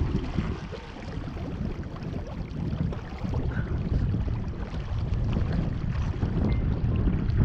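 Wind buffeting the microphone, over water rushing along the hull of an RS Zest sailing dinghy under way. The gusts ease about a second in and build again toward the end.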